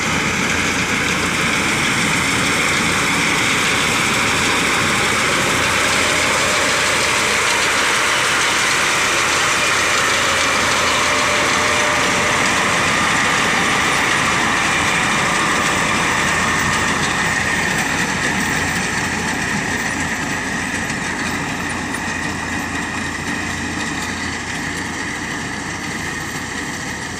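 Tractor's diesel engine running steadily while cutting wheat, easing gradually quieter in the last third.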